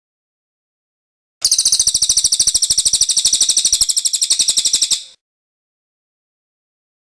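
A songbird gives one harsh, rapid rattling burst of about ten notes a second, lasting nearly four seconds. It starts about a second and a half in and stops abruptly, with silence before and after.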